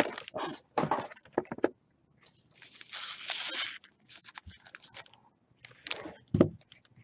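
Trading card pack wrappers crinkling and tearing open, with scattered short crackles and scrapes and one longer tearing sound about three seconds in.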